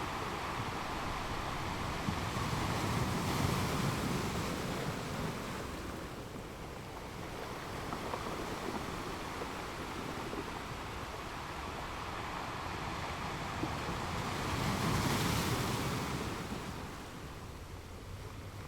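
Ocean waves breaking and washing in, the surf swelling twice, about three seconds in and again near the end, and easing between.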